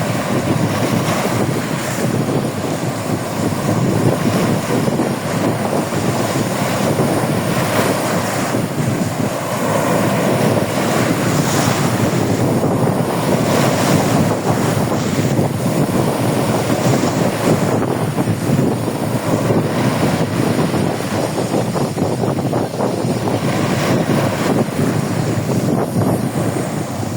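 Sea waves washing onto a beach: a continuous rushing that swells and eases every few seconds, with wind buffeting the microphone.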